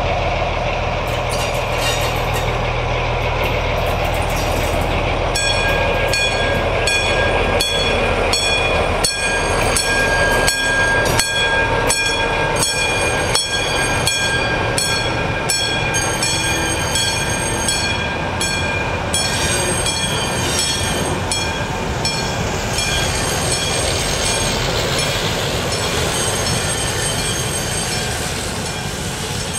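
Red DB V 100-type diesel locomotive and its coaches passing slowly. The engine drones low at first; then wheels click over rail joints in a steady rhythm, with a steady high-pitched wheel squeal over it. The clicking fades near the end as the train draws away.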